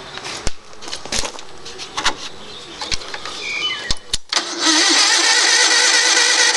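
A few scattered clicks and knocks, then about four and a half seconds in the Gravely 7173H tractor's machinery starts up suddenly and runs loud and steady.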